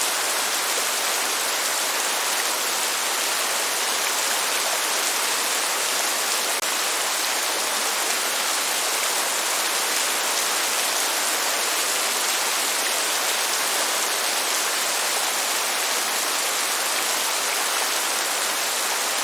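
Steady heavy rain: an even, unbroken hiss with no thunder, dipping for a moment about a third of the way in.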